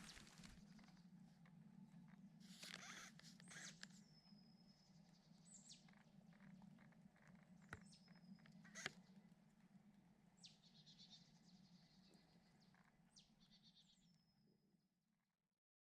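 Faint wild bird calls in the forest: short calls every few seconds, several ending in a thin, high, level whistle, over a faint steady low hum. The sound fades out and stops near the end.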